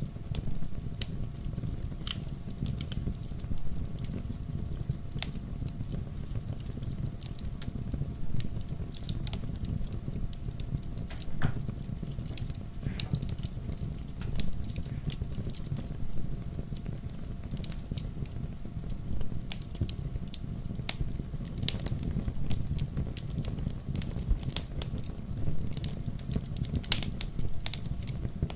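Fireplace fire crackling: irregular sharp snaps scattered over a low, steady rumble.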